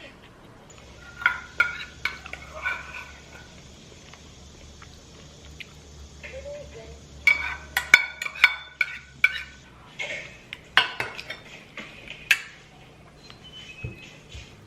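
Dishes and metal utensils clinking and clattering in several quick clusters, the busiest run about halfway through.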